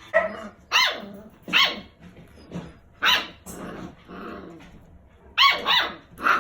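A dog barking, short sharp barks in two runs: several in the first three seconds, a pause, then a quick cluster near the end.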